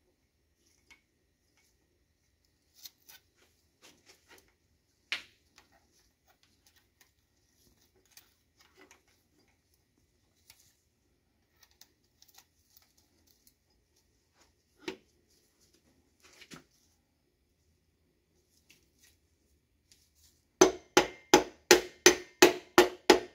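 Scattered light clicks and clinks of engine parts being handled, then near the end a quick run of sharp taps, about four a second: a piston being tapped down past its rings into a cylinder bore of a Volkswagen EA888 Gen 3 engine block.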